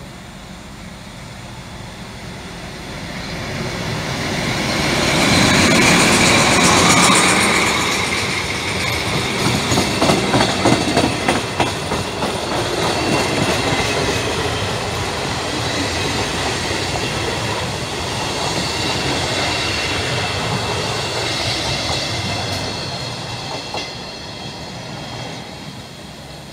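Passenger train hauled by a D.445 diesel locomotive running through the station without stopping. The locomotive swells in as it approaches and passes about six seconds in. Then the coaches' wheels clatter over rail joints, with a run of sharp clicks about ten to eleven seconds in, and a steady rolling rumble that fades near the end.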